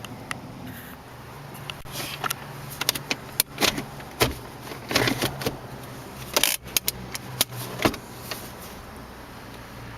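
A string of sharp clicks and light jingling rattles from handling keys or controls inside a car, over a low steady hum.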